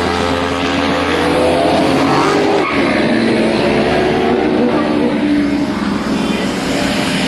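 Sports car engine revving loudly, its pitch climbing and dropping more than once.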